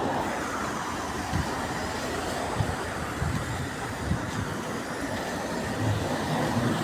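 Interior noise of a MAZ-203 city bus on the move: steady engine and road noise, with low knocks from the body now and then.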